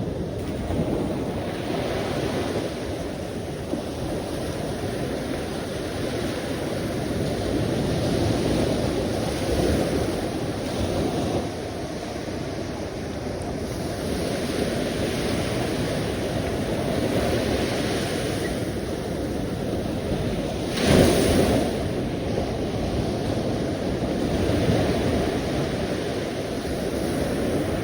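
Sea waves washing onto the shore: a continuous rush of surf that swells and ebbs, with one louder wave breaking about three quarters of the way through.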